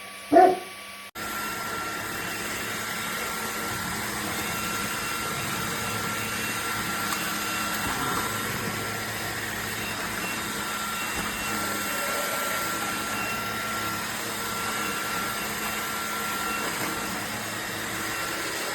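A dog barks once right at the start. Then a LEVOIT LVAC-200 cordless stick vacuum runs steadily with a thin, high motor whine, vacuuming up spilled glass and shells.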